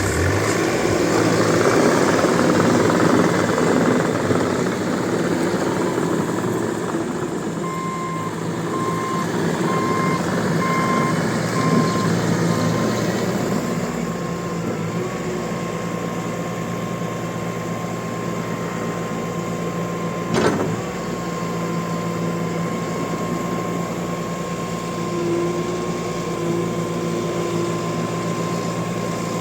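Bobcat T650 compact track loader's diesel engine running, working hard at first and then settling to a steady run. For a few seconds in the middle a backup alarm beeps at an even pace, followed by a steady high tone, with a single knock later on.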